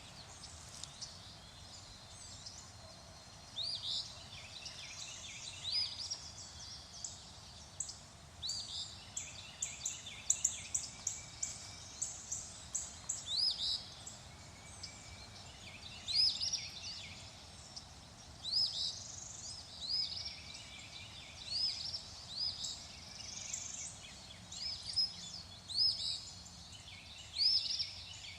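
Songbirds chirping and calling, many short sweeping notes and some quick trilled runs, over a steady faint background hiss.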